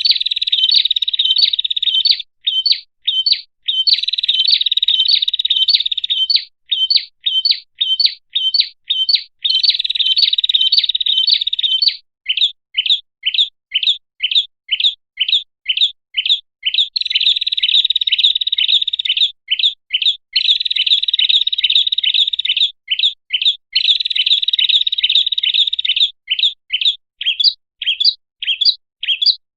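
Prinia (prenjak) lure call: fast runs of sharp chirps, about four a second, alternating with sustained buzzy trills lasting a couple of seconds. The pattern repeats, as in a bird-trapping call recording.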